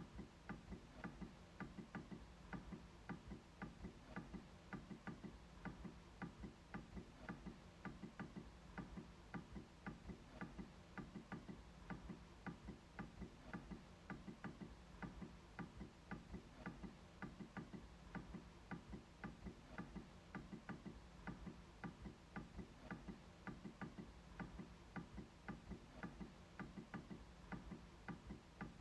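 MacBook trackpad being clicked repeatedly, a faint, even run of short clicks at about three or four a second.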